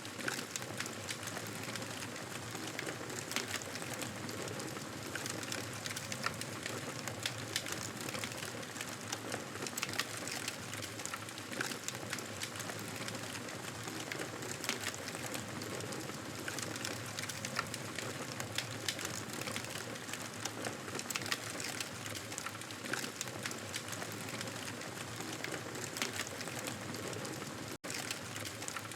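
Wood fire crackling in a fireplace: a steady hiss with irregular sharp pops and snaps. The sound cuts out for an instant near the end.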